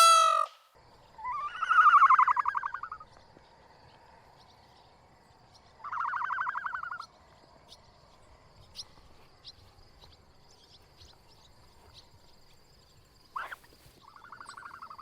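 Animal calls: three pulsed, trilling calls about a second long, spaced several seconds apart, with faint bird chirps in between.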